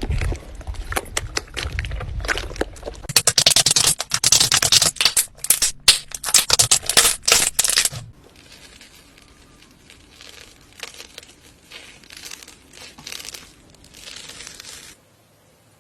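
Slime being squeezed and worked by hand, giving a dense run of crackling, popping clicks. It is loud for about the first half, then turns fainter and sparser, and stops shortly before the end.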